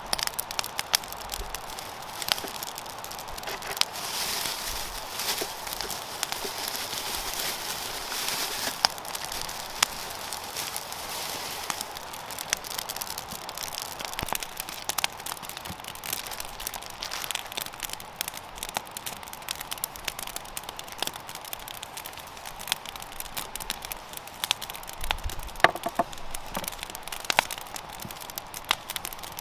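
Wood campfire crackling, with sharp pops scattered irregularly over a steady hiss that swells for a few seconds early in the stretch.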